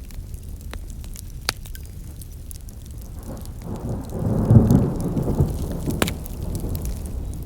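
Campfire wood burning, with scattered crackles and a few sharp pops. About halfway through, a low rushing rumble swells up and fades over a couple of seconds.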